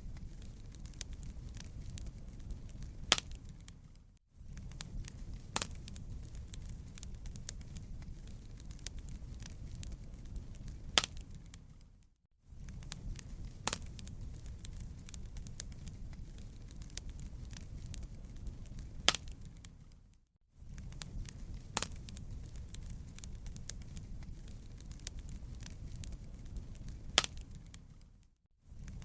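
Wood fire crackling in a fireplace: a steady low rumble with scattered pops and snaps, a handful of them sharp and loud. The sound drops out briefly four times, about every eight seconds.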